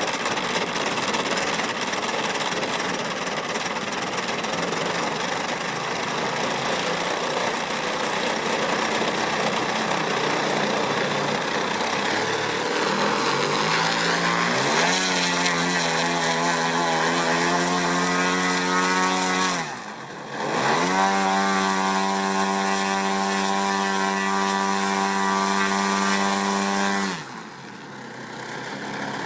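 3W 157 cc twin-cylinder two-stroke petrol engine of a giant-scale model Piper running at high power. About halfway through, its pitch climbs and settles into a steady note. Around twenty seconds in it briefly drops and comes back up, then falls to a lower, quieter level near the end.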